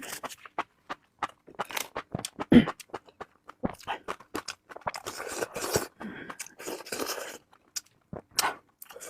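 Close-up chewing and wet mouth sounds of someone eating enoki mushrooms, with many short smacks and clicks.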